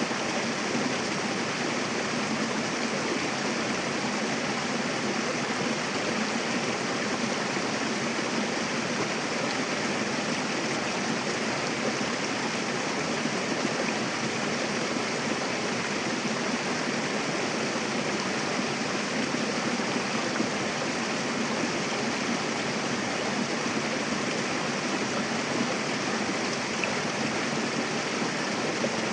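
Mountain river rushing over rocks in a steady, even flow.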